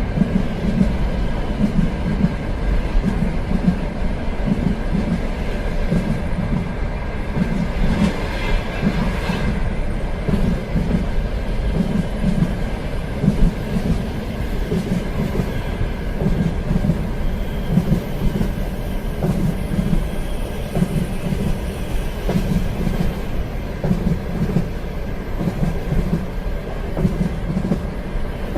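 Train running along the track, its wheels beating over the rail joints in a steady rhythm under a continuous rumble. A brief higher-pitched sound rises over it about eight seconds in.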